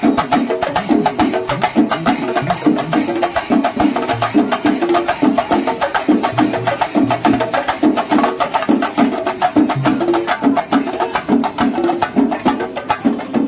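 Kerala temple-festival percussion ensemble (melam) playing fast, dense drum strokes without pause, with a pitched melody line carried over the drumming.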